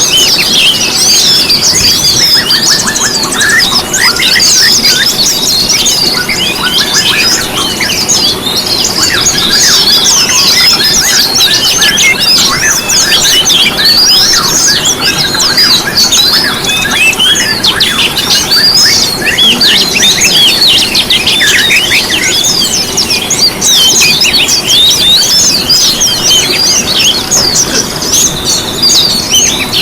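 Dense chorus of many small songbirds chirping and trilling over one another without pause, quick high notes tumbling on top of each other.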